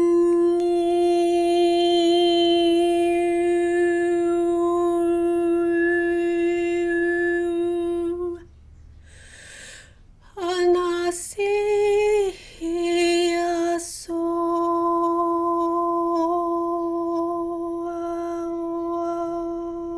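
A woman's voice toning long held notes on one steady pitch. About eight seconds in she pauses for breath and sings a few short notes that slide up and down, then holds a long steady note again.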